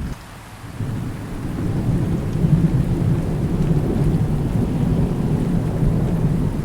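Thunder rumbling over steady rain. After a brief dip in level at the start, a low rolling rumble builds from about a second in and stays loud, with the rain hiss continuing underneath.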